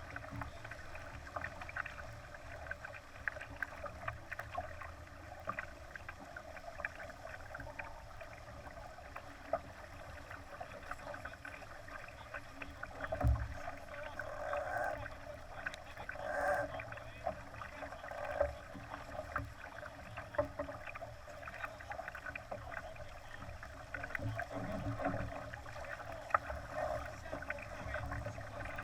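Water splashing and lapping against the hull of a Laser sailing dinghy under way, with a low rumble of wind on the microphone. A sharp thump comes about 13 seconds in, and louder splashes come a few times after it.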